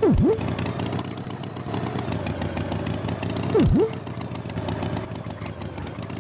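Tractor engine running steadily. Twice, about three and a half seconds apart, a loud short swoop drops steeply in pitch and springs straight back up.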